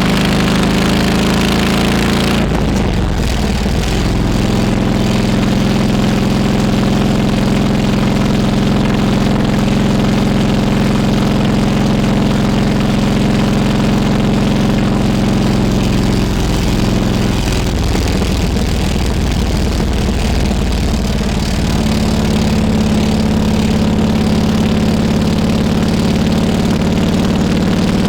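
Harley-Davidson Road King Classic's V-twin engine running steadily while riding. Its note changes a few seconds in and again for several seconds past the middle.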